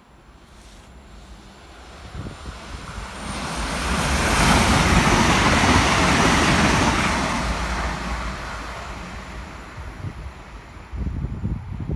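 Irish Rail ICR diesel multiple unit (InterCity Railcar) running through the station: the rush of wheels on rail and the diesel engines grows louder, is loudest about halfway through, then fades as the train draws away. Gusts of wind on the microphone come near the end.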